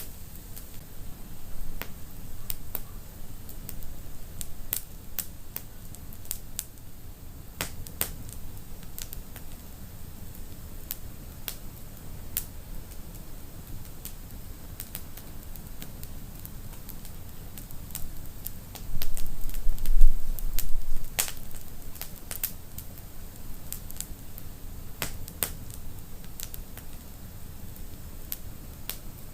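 Wood fire in a fireplace crackling, with irregular sharp pops over a steady low rumble of the flames. About two-thirds of the way through, a louder low rumble swells for about two seconds.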